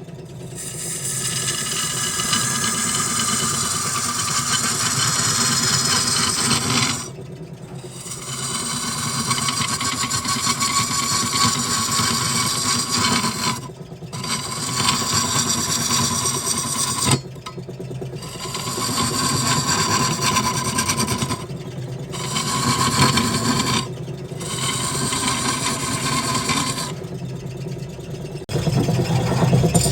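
Wood lathe running with a steady motor hum while a tool works the spinning wood with a scraping hiss, in passes of a few seconds, lifted off briefly about six times.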